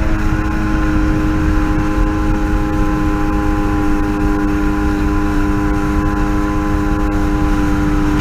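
Yamaha WaveRunner jetski engine running at a steady speed, its hum holding one pitch, with a low rumble underneath.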